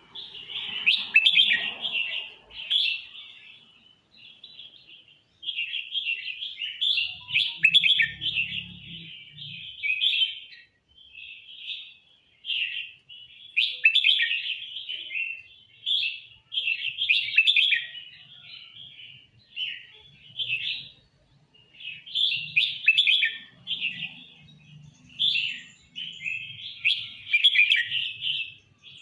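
Red-whiskered bulbul singing all-out: bright warbling phrases of a second or two, repeated again and again with brief pauses between.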